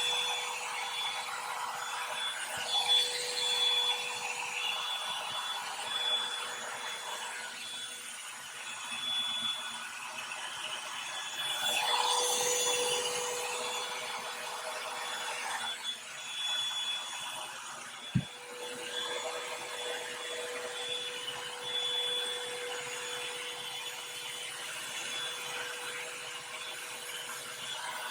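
Revlon hair dryer brush running: a steady fan rush with a thin motor whine, swelling and easing as the brush is worked through the hair, with one brief knock about two-thirds of the way through.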